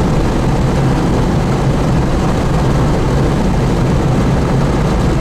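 Steady rumble of road and engine noise inside a moving car, loud and even throughout.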